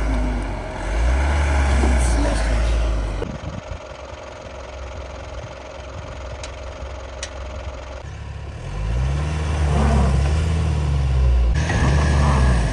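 Car engine revving up and falling back, twice, as the vehicle's wheels spin in snow with no chains fitted; a quieter stretch comes between the two revs.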